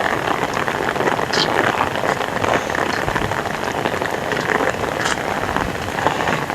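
Heavy rain falling steadily, a dense even hiss with a few sharper drops striking close by.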